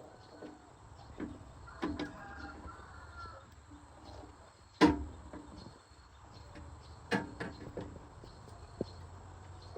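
A few scattered knocks and clacks, as of hard objects being handled and set down, the loudest a single sharp knock about five seconds in.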